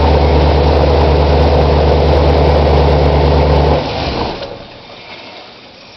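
LS V8 engine in a 1968 Chevy C-10 idling steadily on its first start after the swap, then shut off about four seconds in and winding down to a stop.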